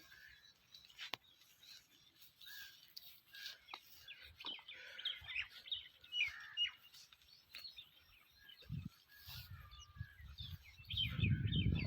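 Small birds chirping and twittering, many short quick calls, with a low rumble, like wind or handling on the microphone, coming in over the last few seconds.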